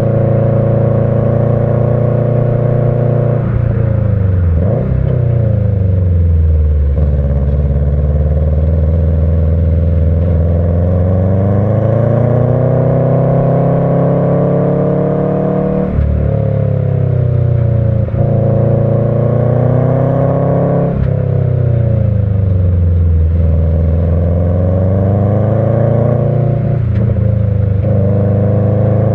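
Subaru EJ20 turbo flat-four with unequal-length headers and a Kakimoto Regu.06&R muffler, driven hard in a 5-speed manual with the uneven boxer rumble. The revs climb and fall repeatedly, with sudden drops about halfway through and again about two-thirds of the way through.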